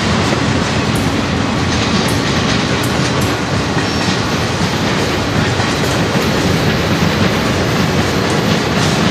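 Union Pacific freight train rolling past on the rails: a steady, loud rumble of wheels and cars.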